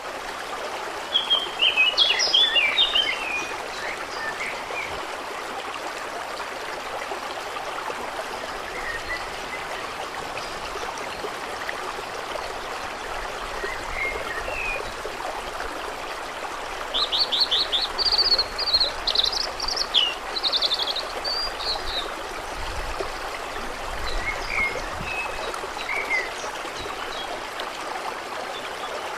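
Steady running water with songbirds singing over it: a short burst of chirping song a second or so in, a longer run of quick trills and chirps a little past the middle, and scattered single calls in between.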